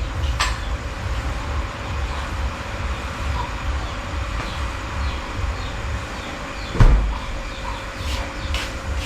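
Low fluttering rumble like wind on the microphone, with a few faint short bird chirps and clicks, and one loud thump about seven seconds in.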